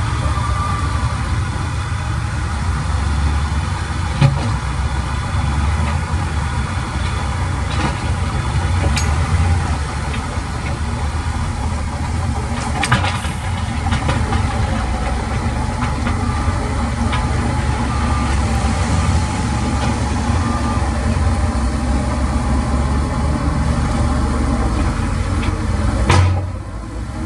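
Heavy construction machine's engine running steadily with a deep rumble, with a couple of sharp clanks and a brief drop in sound near the end.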